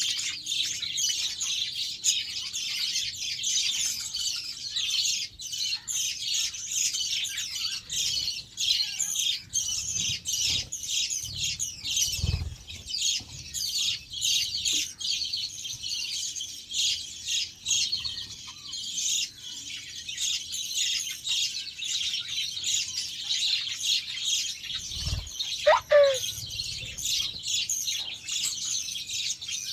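A flock of budgerigars chirping and chattering without a break. Twice a low thump sounds under the chatter, the second near the end, followed by one louder call that slides in pitch.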